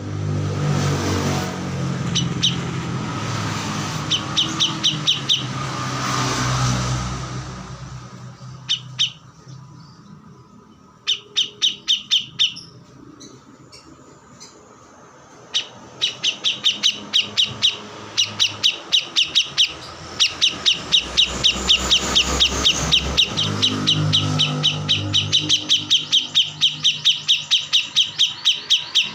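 Kores bird calling in rapid runs of sharp, high chirps, about five or six a second: short bursts at first, then near continuous through the second half. A low rumble runs underneath during the first several seconds.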